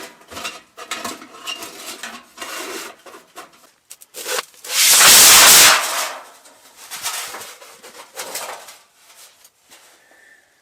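Handling of a wood stove's stovepipe parts: repeated scraping and rubbing as the pieces are worked together, with one loud rushing scrape lasting about a second just under halfway through.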